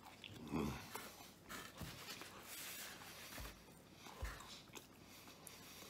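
A man chewing a mouthful of yam-topped pizza close to the microphone, with a short grunt about half a second in and a few soft low thumps.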